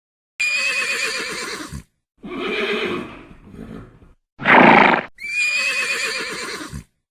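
Horse whinnying: a long wavering neigh, then a lower call, a short loud burst, and the same long wavering neigh again.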